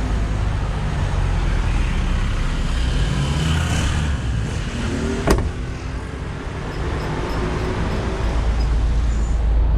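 Intercity coach bus engine running on the move, a steady low drone, with one sharp click about five seconds in. The driver likens the strange engine noise to an engine brake switched on.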